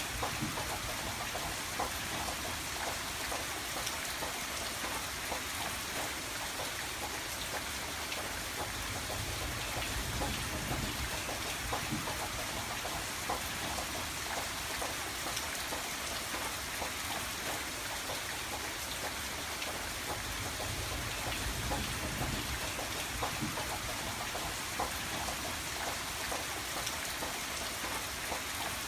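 Steady rain on a window pane: an even hiss of rainfall with many small drop taps.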